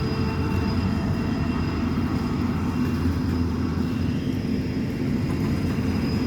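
Norfolk Southern diesel locomotive running steadily: an even, low engine drone with a few thin, steady higher tones over it.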